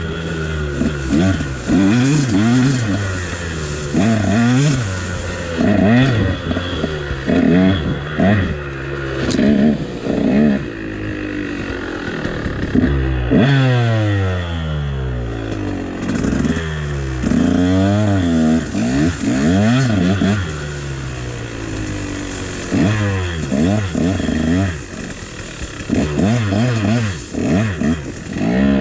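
KTM dirt bike engine being ridden hard, its revs rising and falling over and over with the throttle, with a long drop in revs about halfway through before it picks up again.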